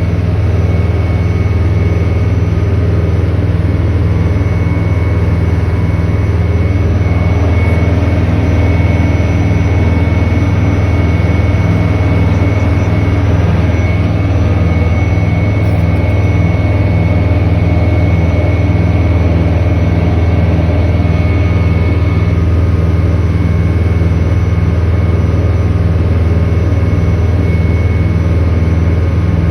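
Boat motor running at a steady speed: a loud, constant drone with a steady pitch throughout.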